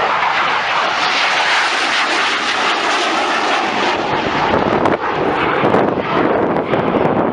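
Eurofighter Typhoon's twin EJ200 jet engines, loud steady jet noise from the fighter landing on the runway, with a deeper rumble coming in about halfway through.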